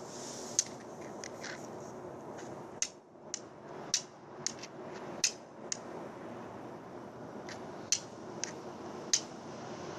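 Flint and steel: a steel striker scraping down a piece of Tennessee flint to throw sparks onto char cloth, about ten short sharp strikes at irregular intervals over a steady background hiss.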